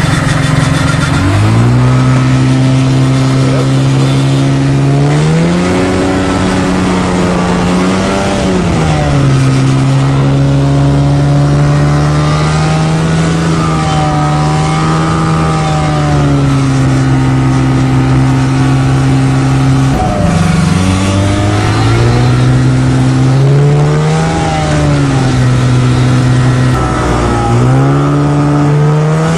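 An engine revving up and down again and again under load, labouring to get free of sticky snow.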